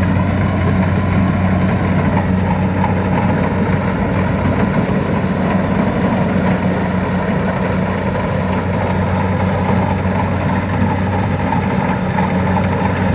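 Tractor engine running steadily at an even speed, a constant low hum with no change in pitch or level.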